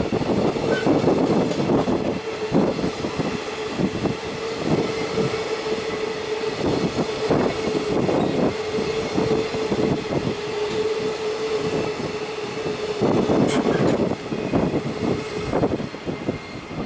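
Container flat wagons of a long freight train rolling past at speed, wheels clattering over the rail with a steady mid-pitched tone from the wheels on the rails. The tone stops about a second before the end, as the last wagon passes.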